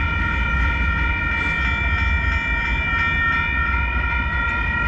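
Union Pacific freight train rolling past a crossing: a steady low rumble with a steady high-pitched squeal over it.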